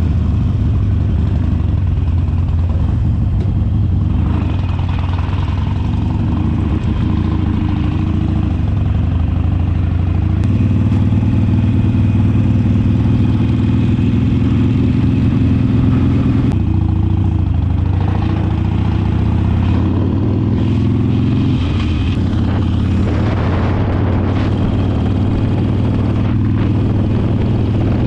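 Motorcycle engine running at road speed. The engine note shifts in pitch a few times and climbs as the bike speeds up about two-thirds of the way through.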